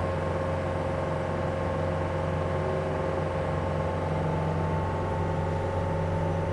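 Heavy equipment's diesel engine running steadily under load, a constant drone with a steady overlying whine.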